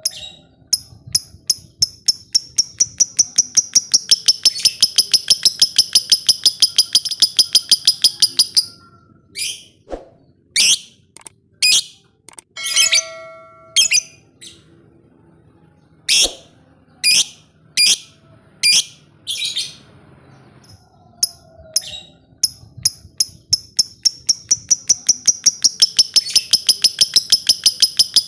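Lovebird ngekek: a long, fast chattering trill of sharp high notes lasting about eight seconds, then a string of separate loud shrill calls, then a second long trill building near the end.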